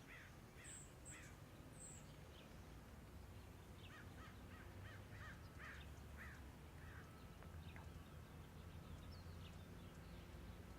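Faint bird calls: a short run of repeated calls near the start and another a few seconds later, with a few high chirps at the beginning, over a faint low background hum.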